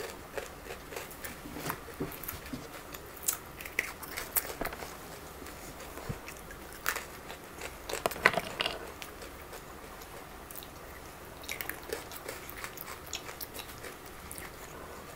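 Close-up chewing and biting of chocolates, with scattered small crunches and mouth clicks.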